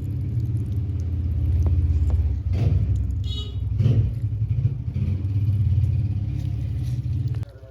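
A loud, steady low engine rumble, with a few brief knocks over it, that cuts off suddenly near the end.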